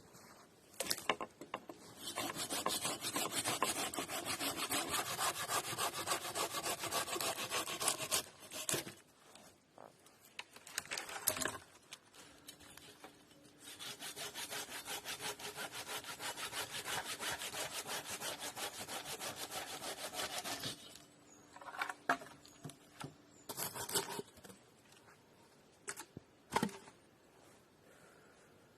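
Hand saw cutting through wood in two long bouts of quick, even strokes, with a few knocks in between and after.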